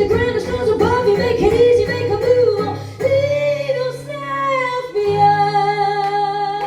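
Live female vocals with band accompaniment: quick repeated sung phrases for about three seconds, then longer sustained notes, closing on a long held note.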